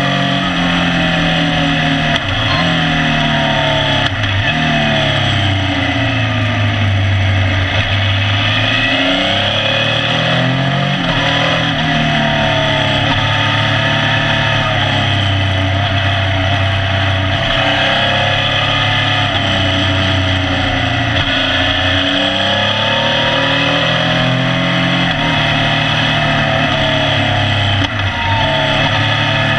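Motorcycle engine under way, heard from a camera on the tail: the revs rise and fall continuously, with a few quick dips as gears change, over a steady rushing noise.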